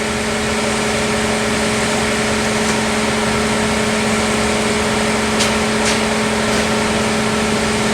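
Steady machine hum with a constant low tone, with two light clicks a little past the middle.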